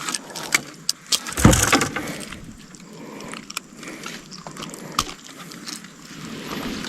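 Scattered clicks and rattles with one heavier thump about a second and a half in: fishing tackle and fish being handled in a boat.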